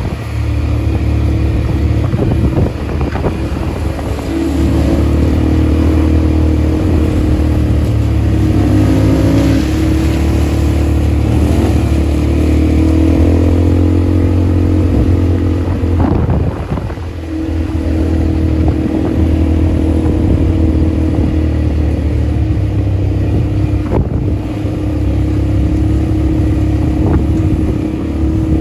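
ATV engine running while being ridden, its pitch rising and falling with the throttle, easing off briefly a little over halfway through.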